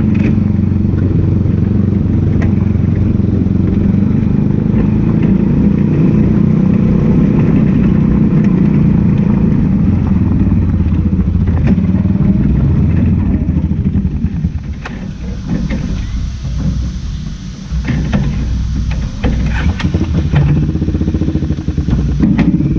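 Onboard race car engine running hard and steady. About fourteen seconds in, the engine note drops and turns uneven, with scattered sharp knocks and clatter.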